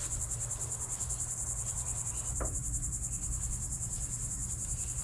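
Steady chorus of insects, a continuous rapidly pulsing high trill, with a low rumble beneath and a single sharp knock about two and a half seconds in.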